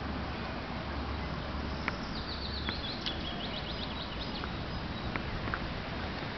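A songbird sings one short trill of quick repeated high notes about two seconds in, over a steady outdoor hiss with a low rumble and a few faint ticks.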